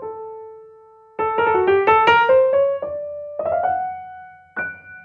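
Solo piano playing slowly: a held note fades away, then a quick run of notes rises about a second in and settles on a long ringing note, and one more note is struck near the end and left to ring.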